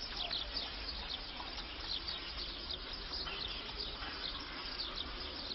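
Small birds chirping: many short, high chirps in quick succession, over a low steady hum.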